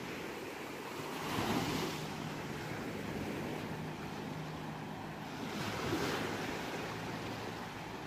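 Ocean waves washing onto a shore: a steady rush of surf, with two waves swelling louder about a second and a half in and again around six seconds.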